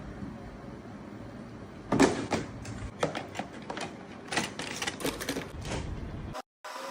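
Irregular clicks and knocks of small plastic parts being handled during a mini fan repair, the loudest about two seconds in.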